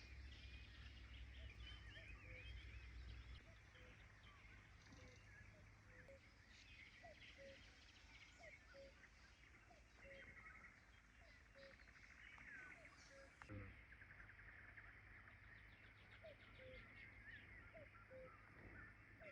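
Faint birdsong: several small birds chirping and twittering, with a short note repeating about once every second, over a soft low rumble. There is a single knock about two-thirds of the way through.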